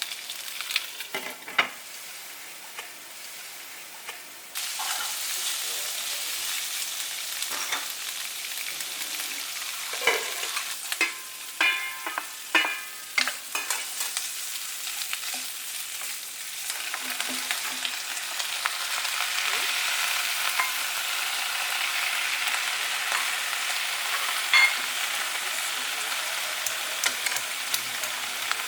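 Food sizzling as it fries in a pan, with a spatula knocking and scraping against the pan now and then, most of all in a run of knocks around the middle. The sizzle gets louder about four seconds in and again a little past halfway.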